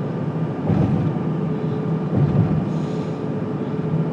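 Steady road and engine noise heard inside a car's cabin while driving at highway speed, a constant low hum under a wash of tyre noise.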